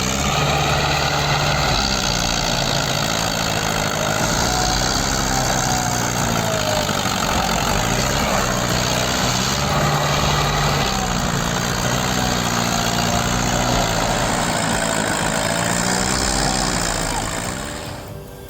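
Tractor engine running hard under load, its note dipping and picking back up several times as it labours, then cutting off abruptly near the end.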